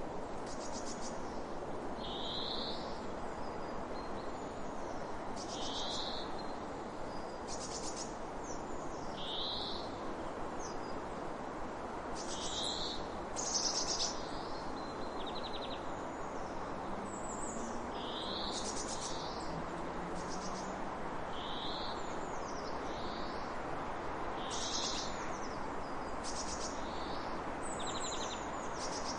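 Birds calling repeatedly over a steady rush of water: short slurred notes about every two seconds, alternating with buzzy, rattling trills.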